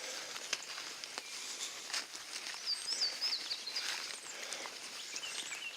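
Woodland ambience: a steady hiss with scattered soft ticks, and a songbird singing a short warbling phrase about three seconds in and again briefly near the end.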